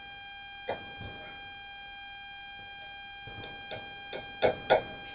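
A knife cutting through a pressed tuna-and-panko mixture in a baking pan makes a few light taps, with two sharper clicks near the end. A steady high-pitched electrical whine with overtones sits underneath.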